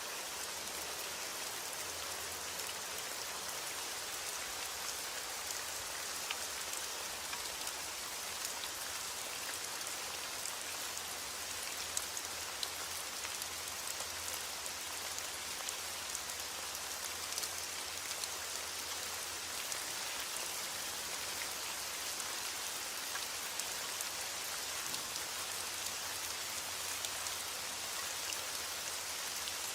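Steady rain falling, with many small drops pattering on a surface over an even hiss.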